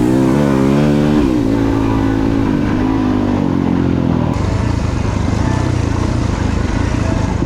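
Dirt bike engine revving up and down as the bike is ridden, its pitch rising and falling repeatedly for the first few seconds, then settling into a rougher, steadier running.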